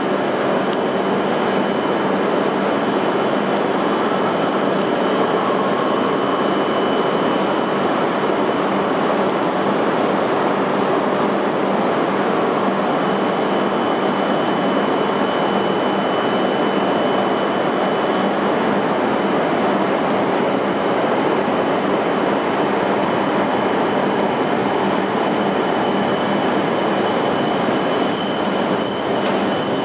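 E5 series Shinkansen train pulling slowly into the platform: a steady rush of running noise from the wheels and train. A high-pitched squeal starts near the end as it slows to a stop.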